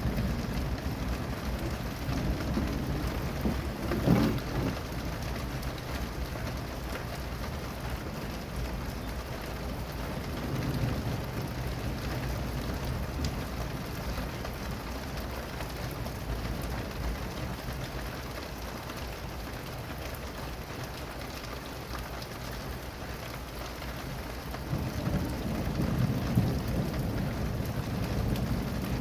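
Steady rain falling, with low rolling thunder rumbling at the start and building again near the end. A short sharp sound stands out about four seconds in.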